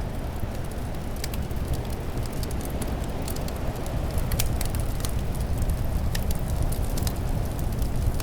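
Fireplace fire crackling, with scattered sharp pops, over a steady low rumble of winter wind.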